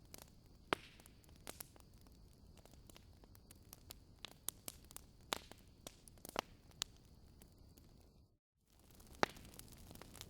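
Wood fire crackling in a fireplace: scattered sharp pops and snaps over a soft steady hiss. The sound cuts out briefly about eight seconds in.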